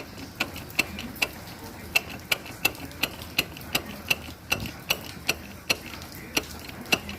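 Worn tripod joint (inner CV joint) on a Fiat Grand Siena drive shaft clicking as it is checked for play, in sharp clicks about two a second, unevenly spaced. The clicks are the joint's excess play, the cause of the car's suspension noise on gear changes.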